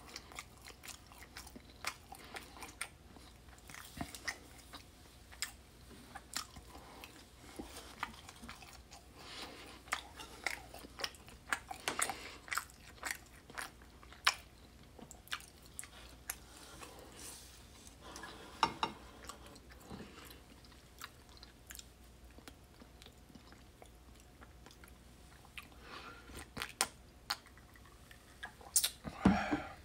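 A person chewing and biting fried food, fries and breaded tenders, with many short crunches and wet mouth sounds, busiest in clusters near the middle. A louder knock comes near the end.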